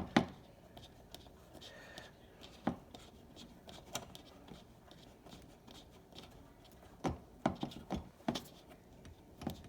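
Scattered small clicks and taps of hands handling and screwing in small fittings on the ends of a dishwasher heating element, with faint rubbing between them and a quick run of clicks near the end.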